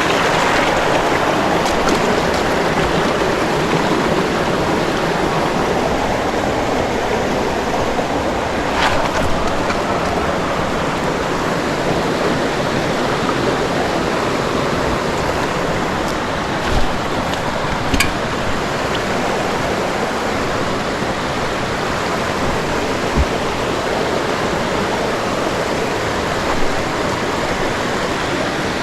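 Creek water rushing steadily over rocks, with a few brief knocks and clicks.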